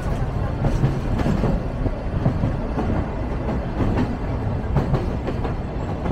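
Sagano Romantic Train running along the line: a steady low rumble of the carriages with irregular clacks and knocks from the wheels on the rails.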